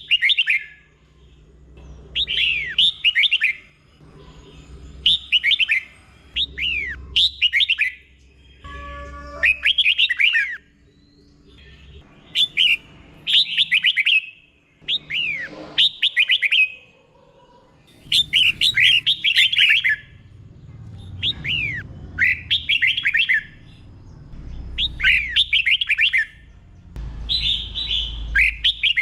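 Red-whiskered bulbul singing in the doubled-phrase (beun) style: short, clear phrases of quick down-slurring whistled notes, repeated every second or two with brief pauses between them.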